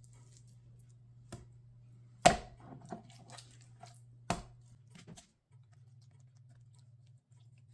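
Knife knocking on a cutting board while raw chicken breast is trimmed and pulled apart: a few sharp knocks, the loudest about two seconds in and another past four seconds, with softer cutting and tearing sounds between. A low steady hum runs underneath.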